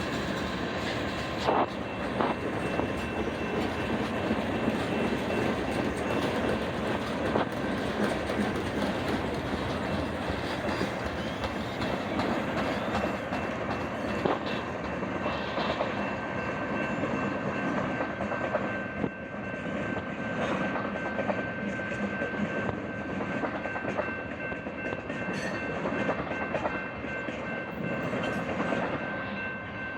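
Manifest freight train rolling past at steady speed, the wheels clicking over the rail joints under a continuous rumble. Two steady high-pitched tones run along with it.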